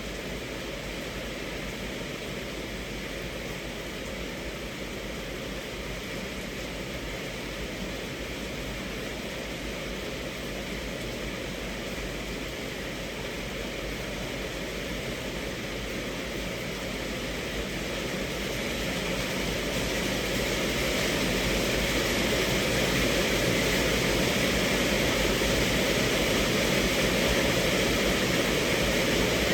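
Rain falling on a car's roof and windows, heard from inside the cabin as a steady hiss that grows heavier about two-thirds of the way through.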